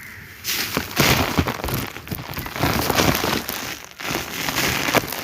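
Lumps of sand-cement crumbled and crushed inside a sheet: a dense run of gritty crackling and crunching that starts about half a second in, dips briefly near the four-second mark, then picks up again.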